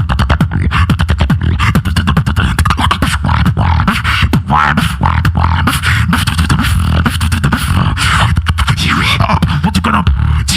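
Solo beatboxing, amplified through a microphone: fast rhythmic vocal percussion strokes over heavy, continuous bass.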